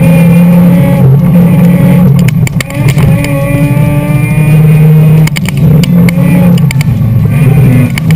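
2004 Mazda RX-8's two-rotor rotary engine running hard under autocross driving, heard from inside the cabin. The engine note rises and falls as the car accelerates and slows between cones, with a brief lift about two and a half seconds in.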